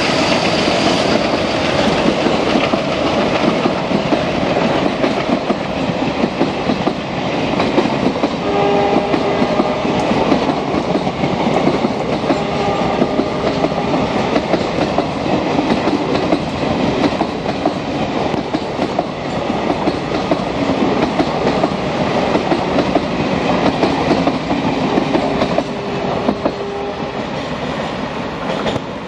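Express passenger coaches running past at speed: a steady, dense clickety-clack of wheels over rail joints with the train's rolling rumble, easing a little near the end as the last coach goes by. A diesel locomotive horn sounds faintly in the distance a few times, once about a third of the way in and again late on.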